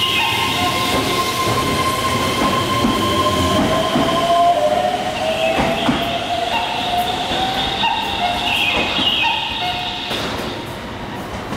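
Electric train running on rails, with steady high-pitched tones over the running noise and a whine that rises in pitch for several seconds midway; the sound eases off somewhat near the end.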